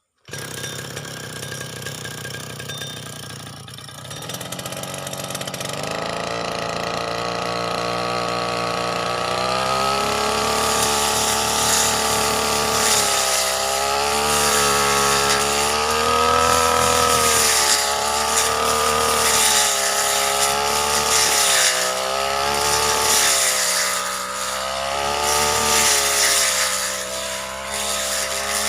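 Brush cutter engine running, speeding up from about six seconds in, then revved up and down again and again as the throttle is worked.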